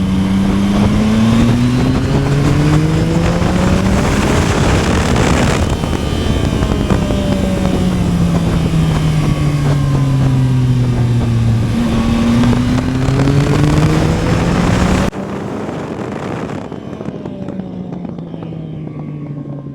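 A Yamaha MT-09's CP3 three-cylinder engine pulling hard under acceleration. Its pitch rises, falls back as the bike slows, then climbs again, with wind noise on the microphone. About three-quarters of the way through it turns suddenly quieter.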